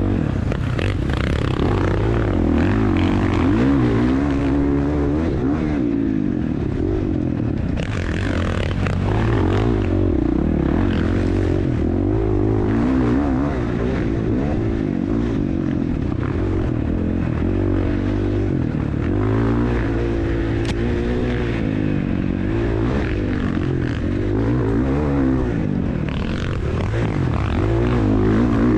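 Dirt bike engine being ridden hard, its pitch climbing and dropping over and over as the throttle is opened and shut, over a steady rushing noise.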